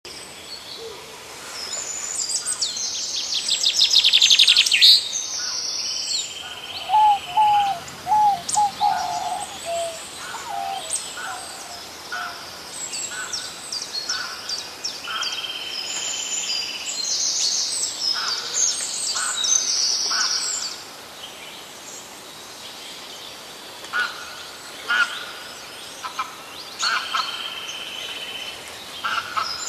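Several birds singing and calling: many short high chirps and trills, with a run of lower whistled notes about seven seconds in.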